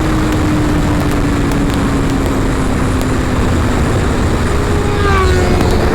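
Sport motorcycle engine heard at highway speed under heavy wind rush on the rider's helmet microphone. The engine note slowly sinks as the revs ease off, then climbs again near the end as the rider gets back on the throttle.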